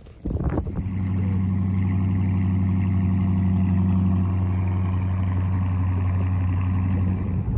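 Dodge Charger engine starting about a third of a second in, rising briefly, then settling into a steady idle, heard from behind the car near the exhaust.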